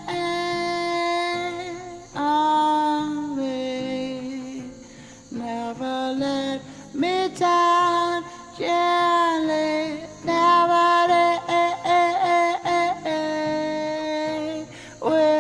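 Music: a single voice singing long, held notes that glide from one pitch to the next, with brief pauses between phrases.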